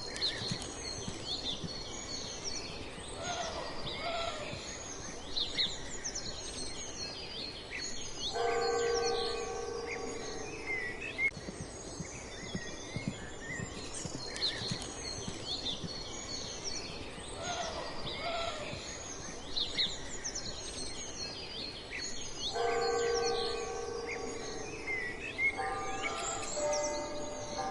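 Ambience of many small birds chirping and twittering. A longer, steady-pitched sound comes in about eight seconds in and again near the end.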